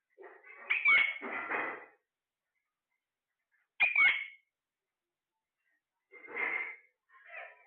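A pet parrot giving four short calls with quick sharp pitch sweeps, the first two the loudest, separated by silent gaps.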